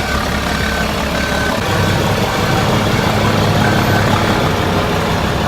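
A vehicle engine running steadily, with a shift in its low note about a second and a half in.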